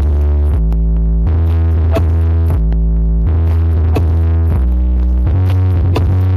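Electronic DJ dance music played loud through a large horeg sound system with subwoofer stacks: a heavy bass line that steps between notes about every half second to second, under synthesizer chords, with a sharp beat about once a second.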